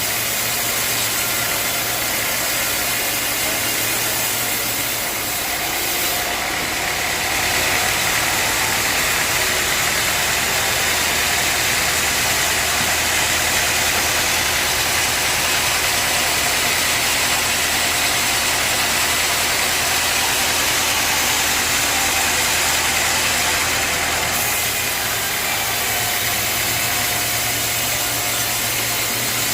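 Sawmill machinery running steadily under a constant motor hum. From about six seconds in to about 24 seconds a louder, brighter hiss joins it.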